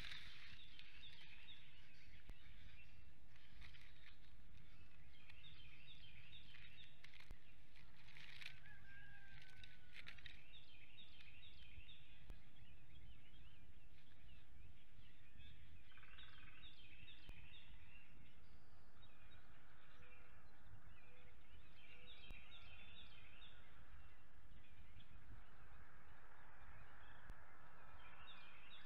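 Birds calling: rapid series of short high notes repeated in bursts of a few seconds, over a steady low background noise.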